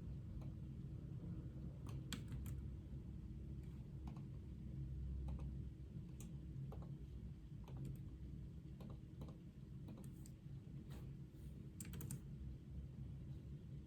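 Computer keyboard typing in irregular, sparse keystrokes, some in quick little clusters, over a steady low room hum.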